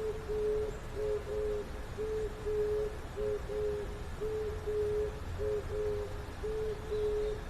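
An owl hooting: short hoots on one even pitch, mostly in quick pairs, repeating steadily at about three a second.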